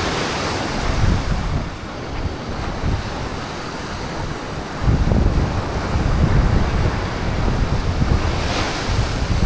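Sea waves washing on the shore under strong wind, with wind buffeting the microphone; the low buffeting gets heavier about halfway through.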